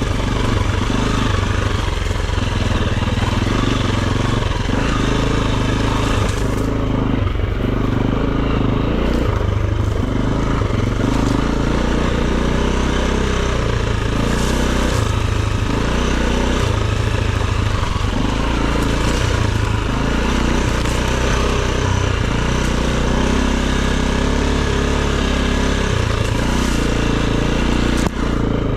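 Enduro dirt bike engine running at a steady loud level while being ridden over rough ground.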